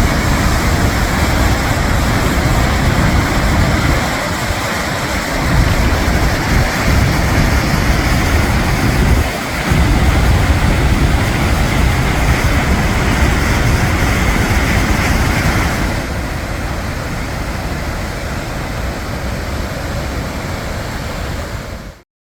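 Steady roar of the Gullfoss waterfall's falling water, with wind buffeting the microphone in uneven low gusts. The sound cuts off suddenly near the end.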